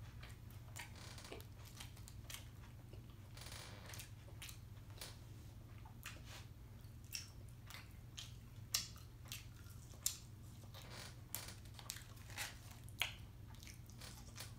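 A person eating close to the microphone: chewing and biting into Cajun-seasoned french fries, with scattered short crunches and wet mouth clicks over a steady low hum.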